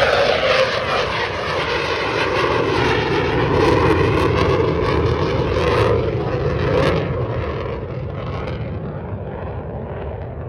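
F-35 Lightning's single turbofan jet engine, loud as the jet passes low on its landing approach, with a swirling, phasing sweep through the noise. After about seven seconds it fades away.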